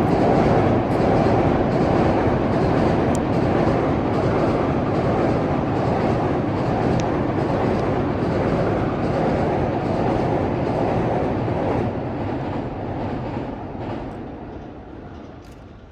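EF81 electric locomotive hauling a rake of E231-series commuter cars passing by, a loud, steady rumble of wheels on rail that fades away over the last few seconds.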